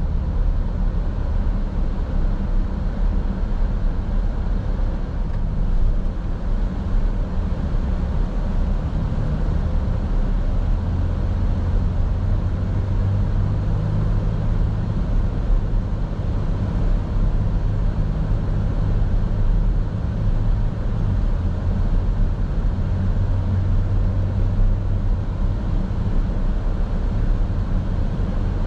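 A car driving along, its steady low road and engine drone heard from inside the cabin.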